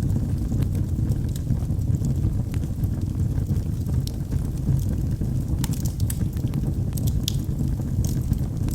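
Log fire burning in a fireplace: a steady low rumble of the flames with scattered sharp crackles and pops from the wood, coming in a quick cluster a little past halfway.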